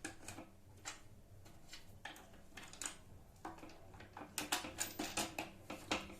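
Small clicks and knocks of router-table parts being handled and fitted by hand, a few spaced out at first, then a quick run of them from about four seconds in.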